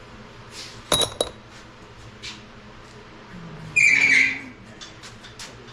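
Loose steel valvetrain parts from a Chevy 350 V8 top end clinking as they are handled and dropped: two sharp metallic clinks with a short ring about a second in, then a louder, longer clatter near four seconds in.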